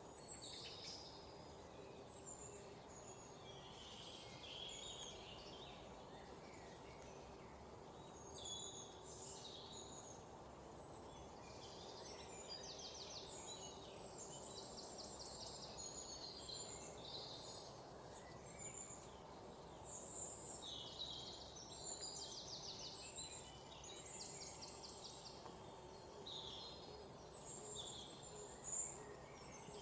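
Several birds chirping and calling at once, with short high notes and a few rapid trills, over a steady low background hum.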